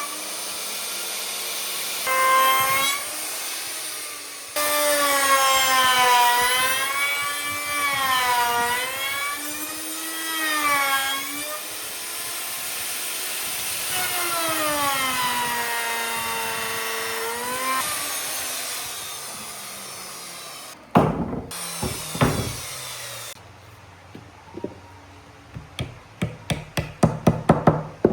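A power tool working wood, its motor whine dipping and rising over and over as the load on it changes, until it winds down about two-thirds of the way through. A few sharp knocks follow, then a quick run of taps near the end.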